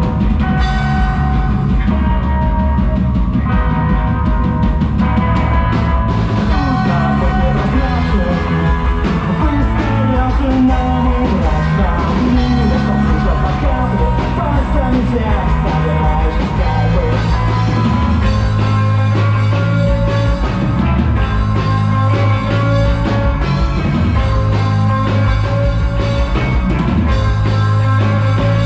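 Rock band playing a song live, loud and dense, with steady bass notes under it.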